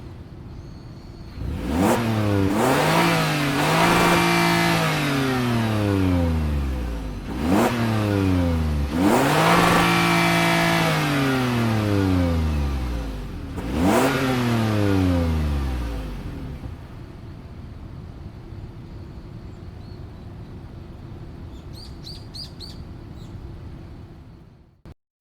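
Toyota Alphard's 3.5-litre 2GR-FKS V6 revved three times, each rev climbing quickly and then winding down slowly. It then runs quietly, with a few faint bird chirps near the end before the sound cuts off.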